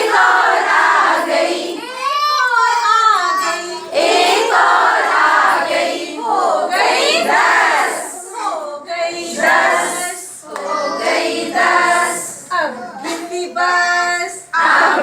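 A group of children singing a Hindi counting rhyme together.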